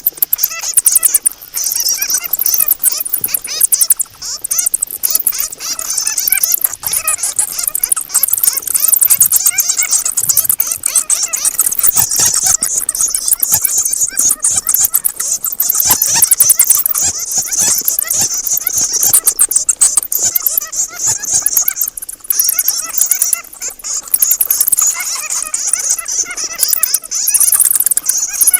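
Bats squeaking and chattering: a dense, continuous stream of rapid high-pitched squeaks and clicks.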